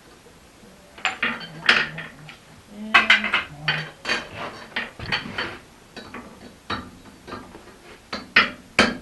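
Hammer striking a forged felling-axe head on the anvil: irregular blows with metallic clinks, starting about a second in.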